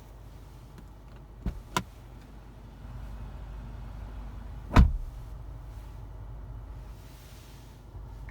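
Two quick sharp clicks, then one loud dull thump of a car door being shut a little under five seconds in, over a low steady rumble.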